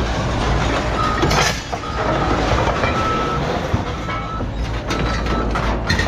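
Scrapyard machinery running steadily, with metal clanking and a few sharp knocks as scrap is sorted and thrown.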